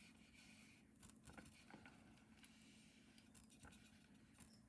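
Near silence: room tone with a steady low hum and a few faint, light clicks.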